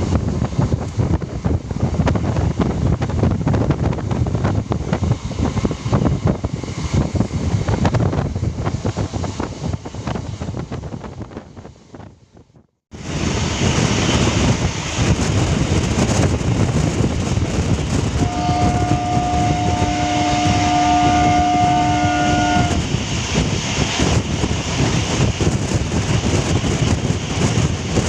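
Suburban electric local train running on the rails, a steady rumble and rattle that fades away about twelve seconds in and comes back abruptly. About eighteen seconds in, a train horn sounds one steady note for about four and a half seconds.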